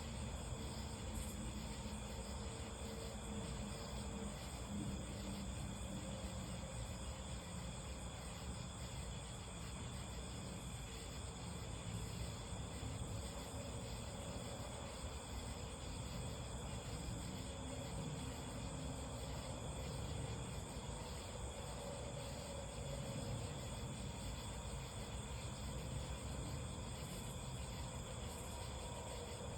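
Night insects such as crickets chirping steadily in a continuous chorus, over a low, even background rumble.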